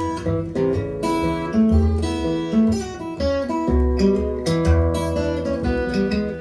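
Acoustic guitar playing an instrumental break in a ragtime blues, with quick picked melody notes over steady bass notes.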